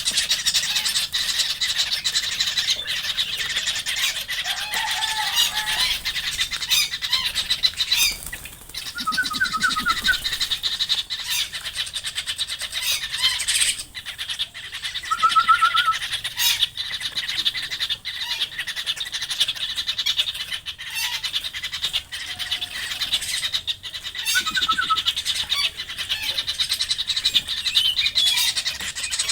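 Wild birds calling: a steady high-pitched chorus of chattering calls, with short trilled notes about nine, fifteen and twenty-five seconds in.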